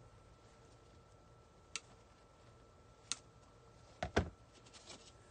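A few sparse, light clicks and taps, the strongest a close pair a little after the middle, over a faint steady electrical hum.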